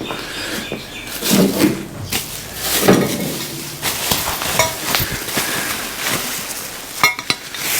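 Loose steel parts of a motorcycle lift table clattering and knocking as they are handled and moved out of their packaging, with a few short metallic rings.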